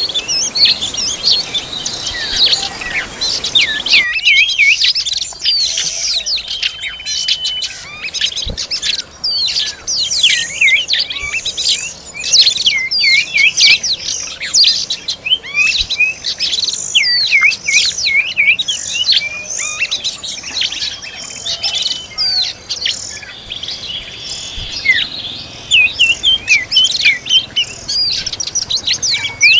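Oriental magpie-robin (kacer) birds chirping and whistling in a rapid, continuous stream of short high notes and quick pitch glides.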